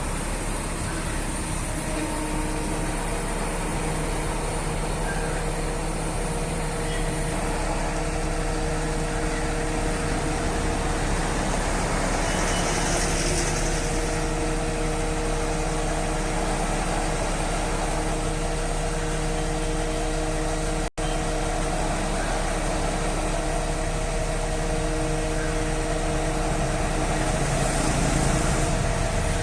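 Mobile crane's engine running steadily at a constant speed.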